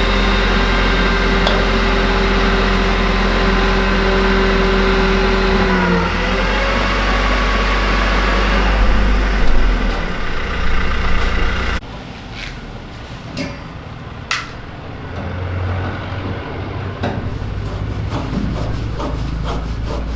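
A machine running with a steady hum whose tone drops in pitch about six seconds in. It then stops abruptly and gives way to quieter scattered clicks and knocks.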